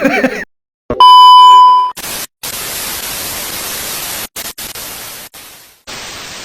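A loud, steady, pure beep about a second long, like a censor bleep, then a hiss of TV-style static that cuts out and comes back a few times and fades away near the end.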